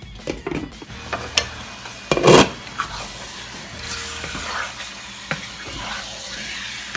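Cubed chicken breast sizzling in oil in a pan while it is stirred, the utensil scraping the pan in several strokes, loudest about two seconds in. The sizzle grows fuller in the second half.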